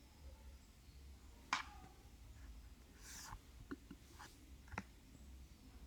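Faint low hum of room tone, broken by a sharp click about a second and a half in, a brief soft rustle around three seconds, and two or three smaller clicks near the end.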